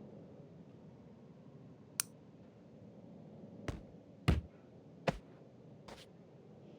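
Five scattered sharp clicks and knocks over a low steady hum, the loudest about four seconds in.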